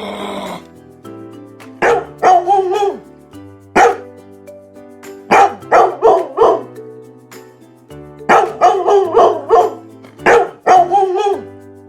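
Short, sharp animal calls in quick clusters of two to four, repeated every second or two over background music with long held tones.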